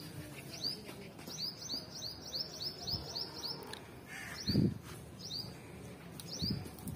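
A small bird chirping: short, high chirps that fall in pitch, first a quick run of about ten, then a few single ones. A dull thump a little past halfway is the loudest sound, with a softer one near the end.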